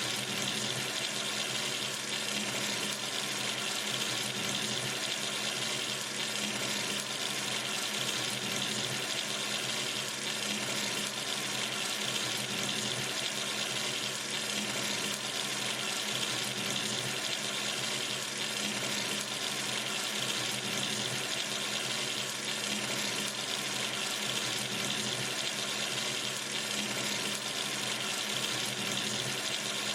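Water running steadily from a sink tap into the basin, an even splashing hiss with no change.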